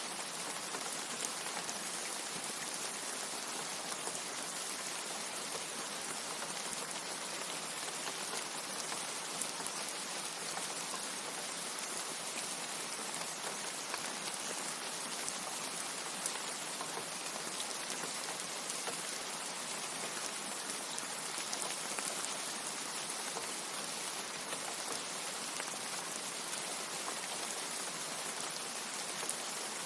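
Steady rain: a dense, even hiss of falling drops, with a few louder single drop ticks scattered through it. No thunder.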